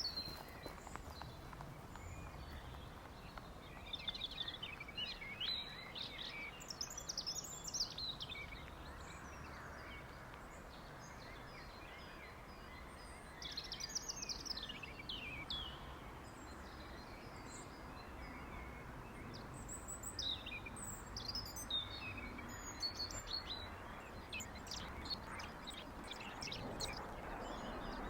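Songbirds chirping and singing in short, quick phrases over a faint steady background hiss, which swells slightly near the end.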